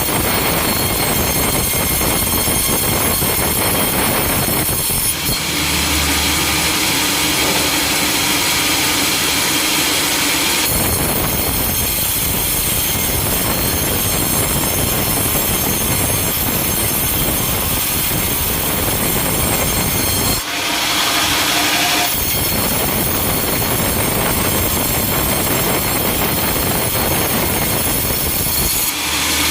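Sawmill machinery running loud and steady, a dense noise with a high whine. The sound changes abruptly several times where different clips are cut together.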